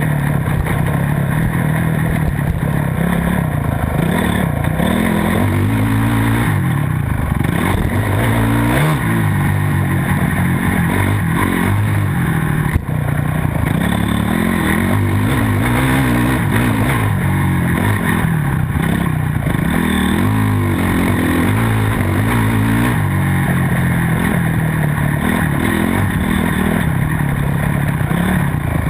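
Motocross dirt bike engine revving up and dropping back again and again as it is ridden around the track, the pitch climbing and falling every second or two. There is a single sharp click about halfway through.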